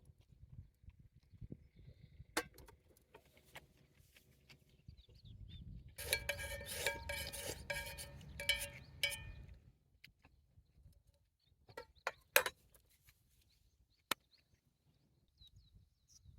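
Scattered clicks and knocks of camp gear being handled, with a louder stretch of ringing metallic clatter in the middle and a few sharp knocks after it.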